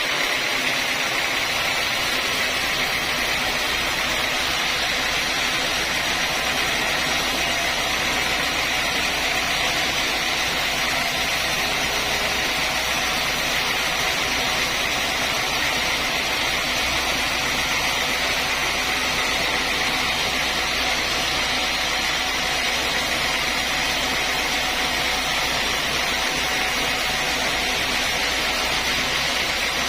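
Sawmill saw and its drive running steadily without a break.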